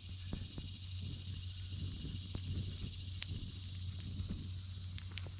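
Steady high-pitched chorus of insects, with a few sharp pops of a crackling campfire.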